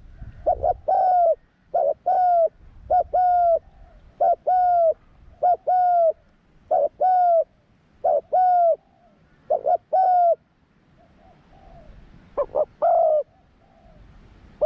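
Spotted dove cooing: a phrase of short notes followed by a longer, slightly falling coo, repeated eight times at about 1.3-second intervals. After a pause of about two seconds it calls once more.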